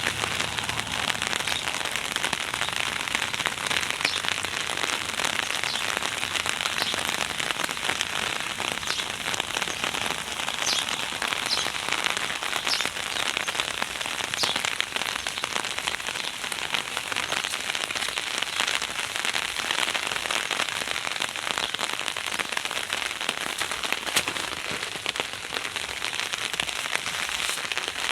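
Heavy rain pouring steadily, a dense hiss of drops with many small patters and ticks on hard surfaces.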